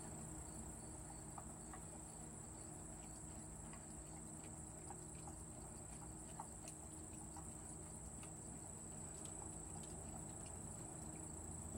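A dog licking and eating wet dog food from a bowl, heard only as faint, irregular small ticks and smacks. A steady high-pitched electronic whine runs underneath.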